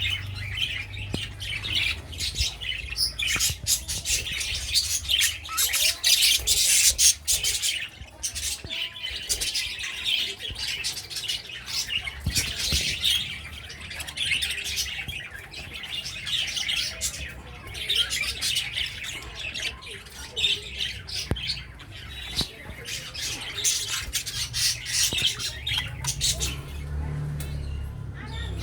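A flock of aviary pet birds, such as budgies, cockatiels and finches, calling and chattering non-stop, with many short, rapid, overlapping high calls. A low steady hum runs underneath.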